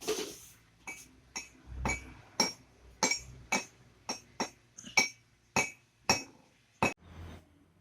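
A series of about a dozen sharp, ringing clinks of small hard objects striking each other, roughly two a second, after one louder knock at the start.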